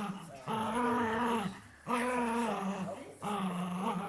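A small dog growling during tug-of-war play with a chew toy: three long growls, each about a second, with short breaks between.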